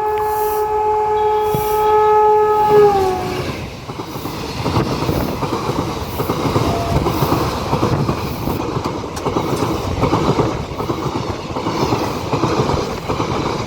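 A passenger train passing close by. Its horn sounds steadily and drops in pitch as the locomotive goes past, about three seconds in. Then the coaches rush by with a rapid clickety-clack of wheels over rail joints.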